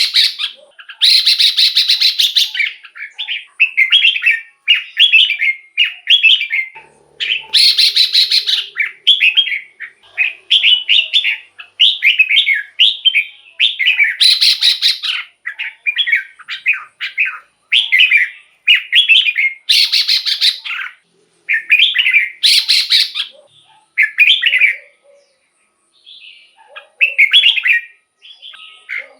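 Red-whiskered bulbul singing short, repeated whistled phrases about once a second. Every few seconds a louder, harsher chattering call breaks in.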